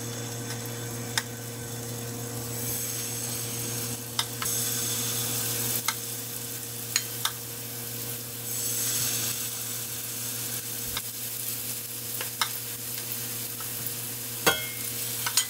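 Battered eggplant slices frying in shallow oil in a nonstick pan, a steady sizzle. Several sharp clicks and taps sound through it as more slices are laid into the pan.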